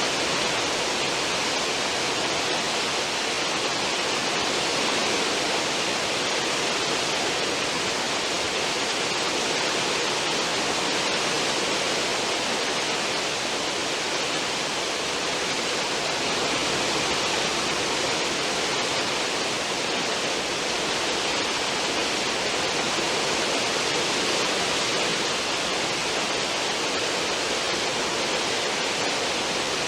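Churning water of a cruise ship's stern wake: a steady, unbroken rushing hiss with no breaks.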